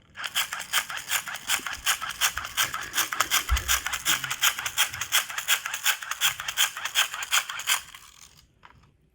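Hand-powered dynamo flashlight being worked quickly to keep its light on, its gear mechanism rattling at about five strokes a second. It stops about eight seconds in.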